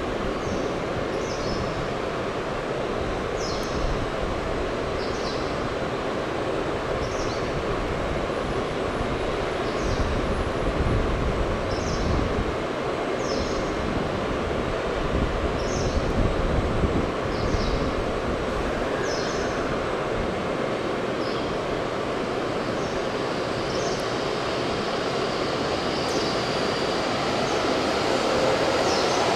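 An N700S Shinkansen train standing at a covered platform gives a steady hum and noise, with short high chirps every second or two. Near the end it starts to pull away, and a faint rising electric whine comes in.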